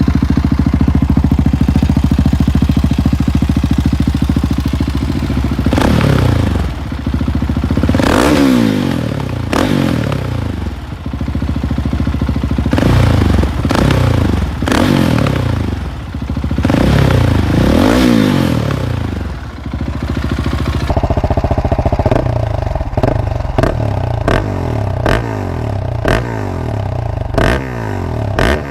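Husqvarna 701 Supermoto's single-cylinder engine, fitted with an aftermarket exhaust, idling and then revved in a series of throttle blips that rise and fall in pitch. Partway through the sound changes abruptly to an idle with quick, short blips.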